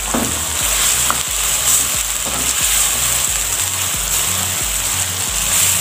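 Chicken sizzling in masala gravy in a nonstick wok, stirred with a plastic spoon that scrapes and knocks against the pan now and then over a steady hiss.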